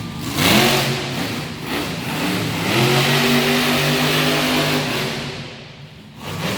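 Monster truck engine revving hard in two surges: a quick rise about half a second in, then a second rise that is held for a couple of seconds before it falls away near the end.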